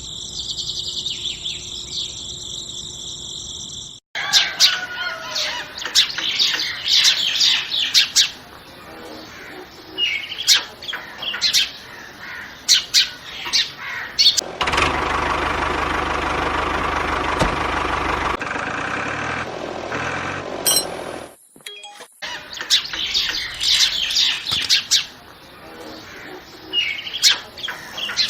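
Small birds chirping over and over in quick bursts, with a steady mechanical whir lasting a few seconds about halfway through.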